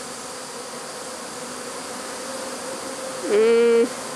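Swarm of Italian honey bees buzzing steadily, a dense hum. A little over three seconds in, one bee buzzes loudly close by for about half a second, then the steady hum continues.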